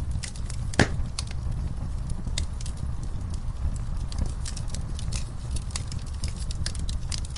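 Wood fire in a fireplace crackling, with irregular sharp pops over a steady low rumble of the burning; one louder pop comes just under a second in.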